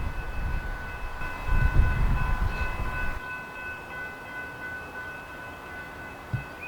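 Metra commuter train standing at the station: a low rumble under a steady high-pitched whine. The rumble drops away about three seconds in, while the whine carries on.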